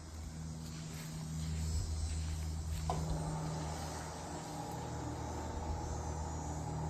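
Steady low mechanical hum, joined about three seconds in by a higher steady buzz.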